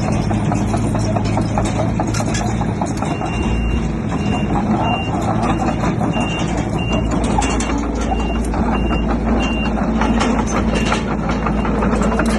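Heavy diesel machinery running steadily while a reversing alarm beeps about once a second for several seconds, with irregular clattering over the engine.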